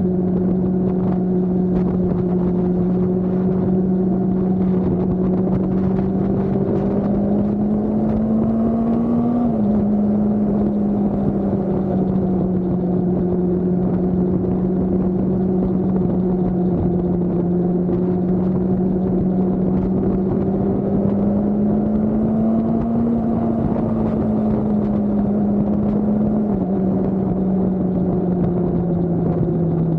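Motorcycle engine running steadily at road speed. Its note rises slowly under acceleration, then drops suddenly as if at an upshift, about a third of the way in and again near the end, over a steady rushing noise.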